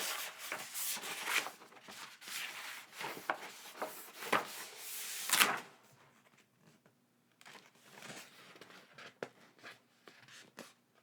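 Unboxing: packaging being handled and rustled, with crinkling, scraping and clicks, busiest and loudest in the first five and a half seconds, then only a few light taps.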